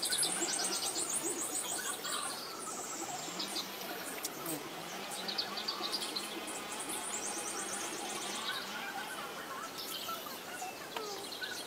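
Birds chirping, with rapid high trills that recur every second or two over a steady background of other calls.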